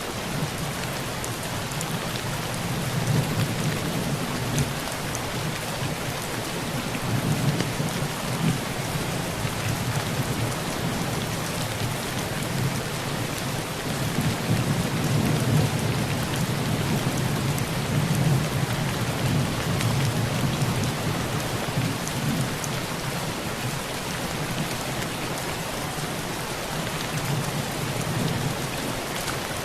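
Heavy rain falling on a tin roof, a steady dense patter of drops, with low thunder rumbling underneath that swells and fades several times, most strongly through the middle.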